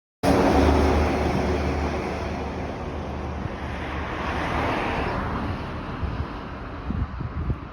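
Vehicle noise, a car's engine and road rumble, cutting in abruptly, with a swell about four to five seconds in before slowly fading.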